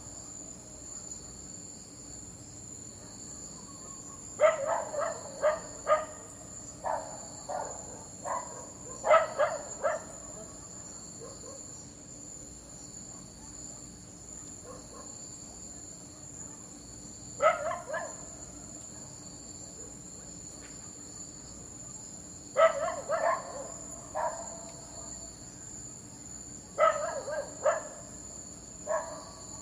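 A dog barking in short runs of several quick barks with long pauses between, over a steady high-pitched chirring of crickets.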